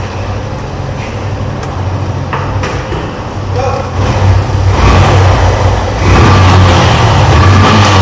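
A motorcycle engine running steadily in a workshop, getting louder about four seconds in. A couple of light metallic clicks come from screws being sorted in a tool drawer.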